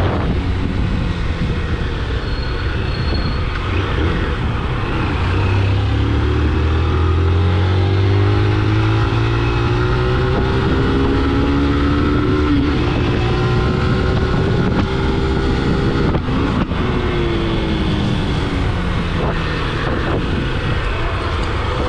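Motor vehicle engine running on the move, its pitch rising and falling several times as the speed changes, over a steady rush of road and wind noise.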